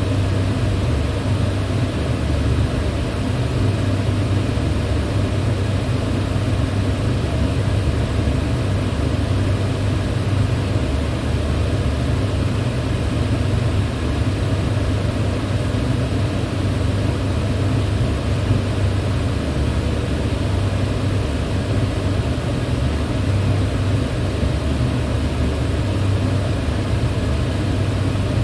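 Electric fan running steadily at one speed: an even rush of air over a deep, constant hum.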